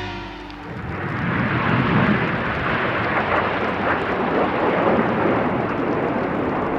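Several Red Arrows BAE Hawk T1 jets in flight, their engine noise swelling in about a second in and then running as a steady rush.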